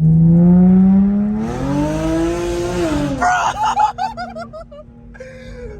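Car engine through an aftermarket Tomei single-exit exhaust: it holds a steady drone for about a second, revs up with rising pitch, then drops off about three seconds in and settles to a lower steady note.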